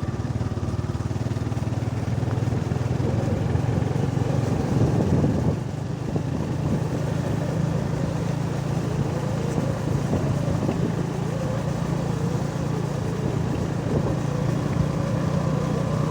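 A vehicle engine running steadily while travelling along a road. It swells about four to five seconds in, then drops off briefly just before six seconds, as when the throttle is eased, before picking up its steady hum again.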